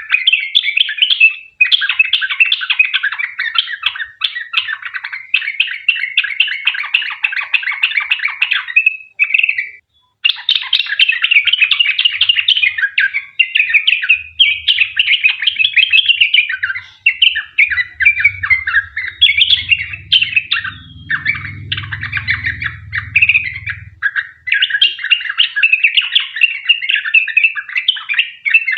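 Yellow-vented bulbul (trucukan) singing a long, rapid, rolling chatter of notes, almost without pause, with one short break about ten seconds in.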